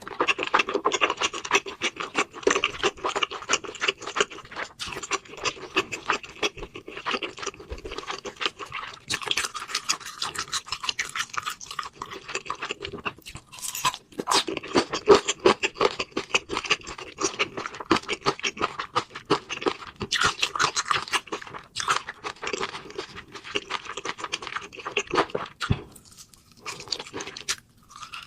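Close-miked eating sounds: a person chewing and crunching food in a dense, irregular run of wet clicks and crunches, with two short pauses near the end.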